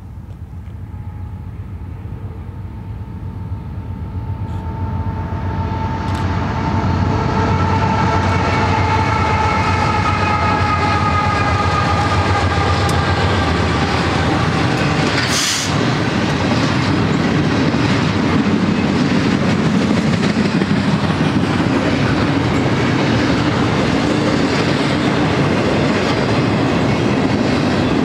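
BNSF freight train passing: the diesel locomotives grow louder over the first seven seconds, with a ringing tone and its overtones slowly falling in pitch. Then comes the steady rumble and clickety-clack of double-stack container well cars rolling by. A single sharp bang comes about fifteen seconds in.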